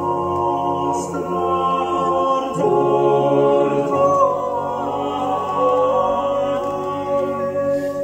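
Recorded a cappella choral singing, several voices holding long notes and moving slowly between chords, played back through Bose 301V speakers driven by a Yamaha RX-V496RDS receiver.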